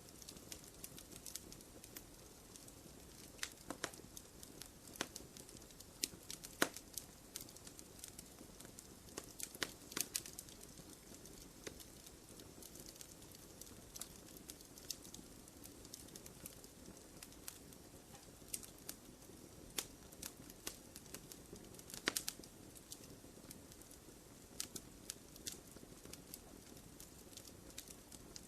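Wood fire in a fireplace crackling: irregular sharp pops and snaps over a low, steady hiss, with a few louder pops now and then.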